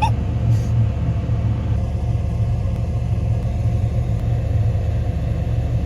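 Heavy farm machinery engine running steadily, a low even drone.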